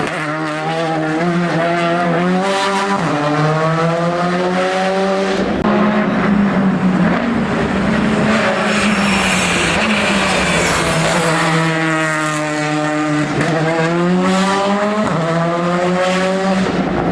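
Hill-climb race car engine accelerating hard up through the gears, its pitch climbing and then dropping suddenly at each upshift, several times.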